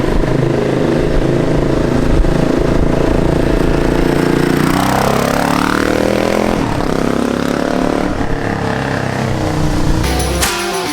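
Motorcycle engine running, its revs dropping and then climbing again about five seconds in.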